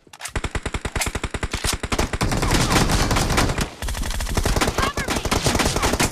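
Automatic gunfire in a shooter video game: a rapid string of shots at a fast, even rate that soon thickens into dense, continuous fire, broken by a short pause a little before the middle.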